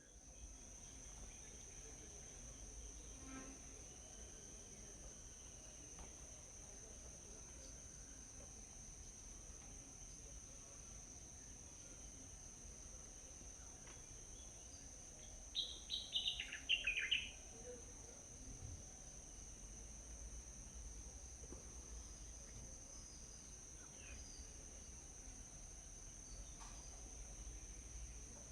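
Steady, high-pitched insect drone, like crickets, running throughout. A little past halfway a songbird gives a quick burst of loud, falling chirps lasting about two seconds.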